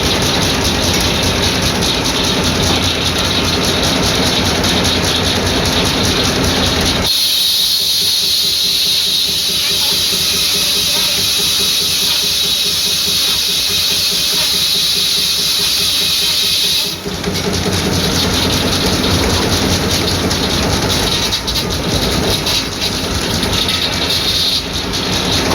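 Old farm sawmill running: the steady beat and clatter of its heavy stationary engine and saw machinery. From about seven seconds in, a loud high hiss takes over for about ten seconds while the low engine sound drops out, then it cuts off and the engine beat returns.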